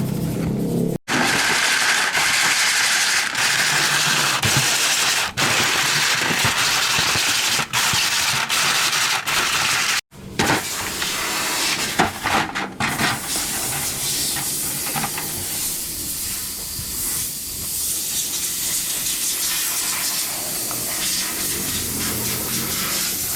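Loud, steady spraying hiss, as from a compressed-air tool or spray gun. It drops out abruptly twice, about a second and about ten seconds in, and runs on a little quieter from about thirteen seconds.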